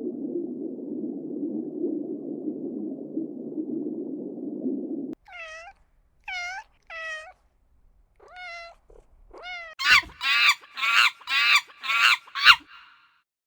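A low, rough rumbling for about five seconds, then an animal's short calls that dip and rise in pitch, a few spaced ones at first, turning into a quick run of louder, harsh squawks near the end.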